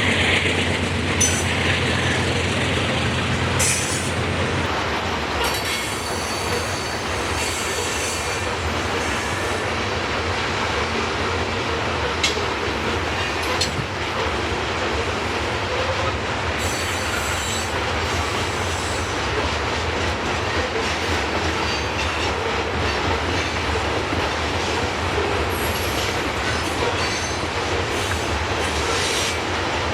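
Freight train rolling past: a steady rumble of cars on the rails, with wheel squeal coming and going in short high-pitched streaks. A low engine hum is heard in the first four seconds or so, then fades.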